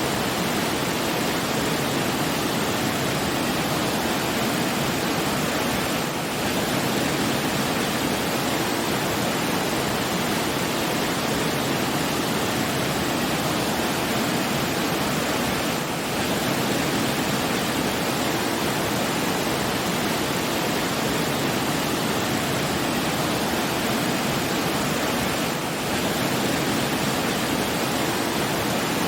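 Steady rushing noise of falling water, like a waterfall, even and unbroken, with a slight dip in level about every ten seconds.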